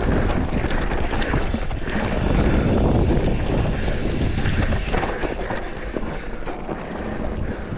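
Wind buffeting the microphone of a mountain biker's camera while riding downhill, with the rumble of tyres on the dirt trail and a few short clicks and rattles.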